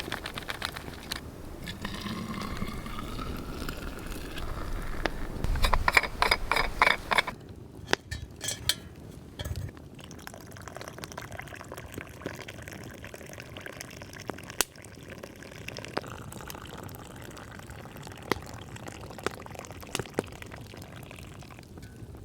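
Liquid poured into a cup or pot, its pitch rising as it fills, then a quick run of clinks a few seconds later; after that a quieter steady hiss with scattered crackles from the burning rocket log.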